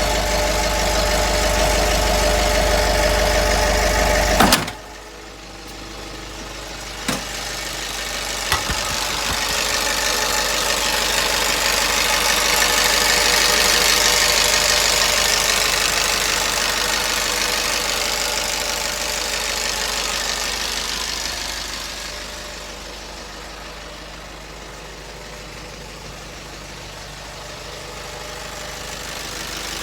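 Nissan Atlas truck engine idling steadily, then a sudden knock about four and a half seconds in, after which the engine sound drops away to a much quieter hum. Two light clicks follow, then a broad hiss that swells and fades.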